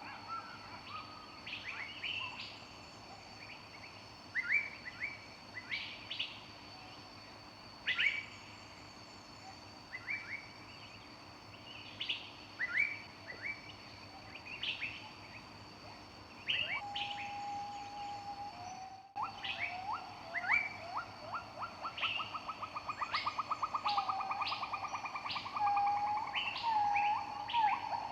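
Several small songbirds singing and chirping in a forest, short overlapping calls and phrases. Past the middle one bird holds a single note for a moment, then another gives a fast trill of rapid notes lasting several seconds.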